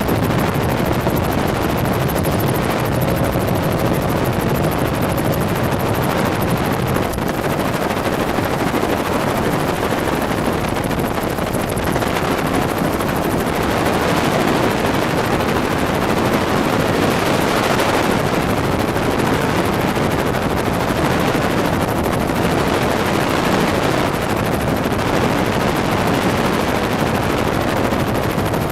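Helicopter in flight: loud, steady rotor chop and engine noise with no break.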